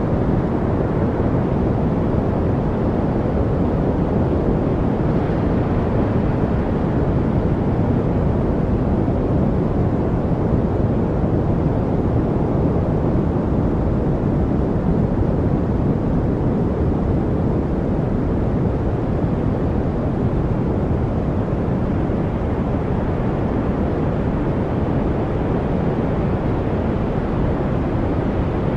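Steady study noise track: an even, unchanging hiss weighted toward the low end, so it sounds deep and rumbling rather than bright.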